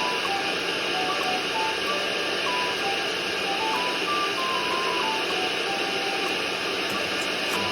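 Steady rushing noise of an electric air blower running as it inflates a giant balloon, with a light plinking background-music tune over it.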